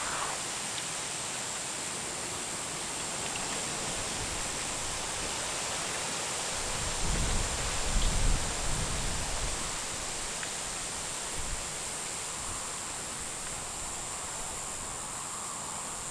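A steady night insect chorus: a constant high, shrill chirring over a steady rushing background. A few low rumbles come in about halfway through.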